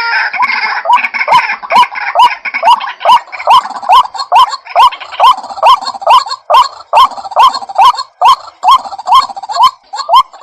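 White-breasted waterhen (ruak-ruak) calling: a long, monotonous series of short hooked notes, about three a second, with a denser overlapping chatter of calls in the first second.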